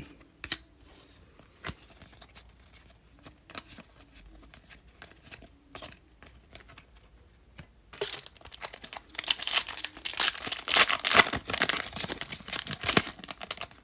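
Wrapper of a Topps Fire baseball card pack being torn open and crinkled, starting about eight seconds in, after a stretch of faint, scattered clicks from cards being handled.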